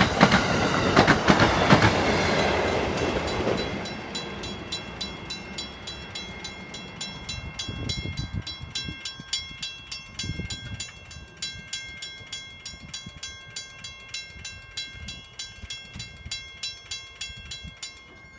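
A passenger train passing close by over a grade crossing, its wheels clacking over the rail joints and fading away over the first few seconds. The grade crossing bell then rings on in regular strokes as the train moves off.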